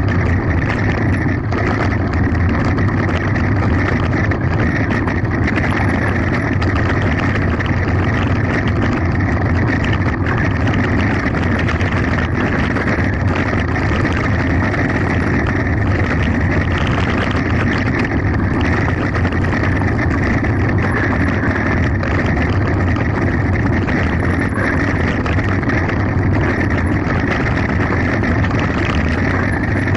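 Mountain bike descending fast on a gravel forest road: steady wind noise on the mounted camera's microphone over a constant tyre rumble and rattling from the bike.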